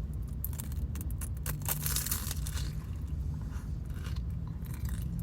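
Paper sleeve of a McDonald's apple pie crinkling and tearing as it is handled and opened, in a run of short irregular crackles, over a low steady hum.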